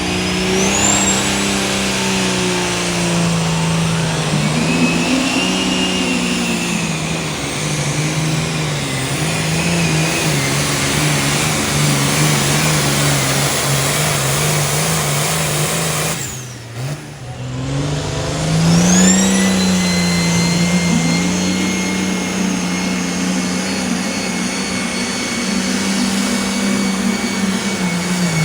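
Engine of a pulling vehicle running hard at high revs under load. Its pitch wavers up and down, with a high whine that rises and then holds. About seventeen seconds in the sound briefly drops away, then the engine climbs again with a fresh rising whine.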